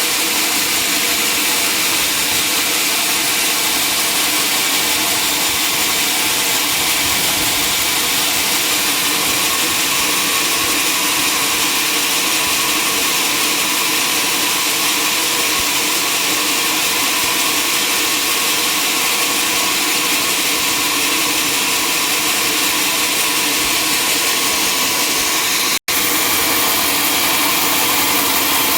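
Sawmill machinery running steadily: a loud, even mechanical noise of a saw and its motor. It cuts out for an instant near the end.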